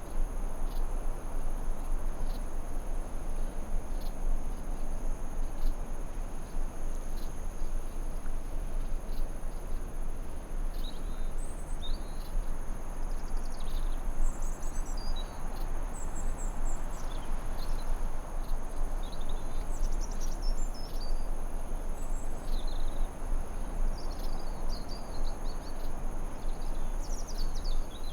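Forest ambience: a steady hiss of noise under two continuous high-pitched insect drones like crickets, with scattered short bird chirps joining from about eleven seconds in.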